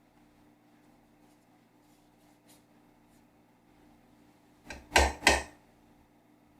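Three quick knocks close together about five seconds in, the last two loudest, over a faint steady hum.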